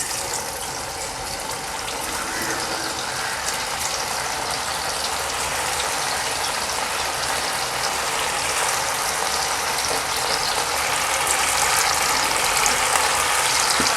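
Pieces of marinated boneless chicken 65 deep-frying in hot oil: a steady sizzle with fine crackling, slowly getting louder.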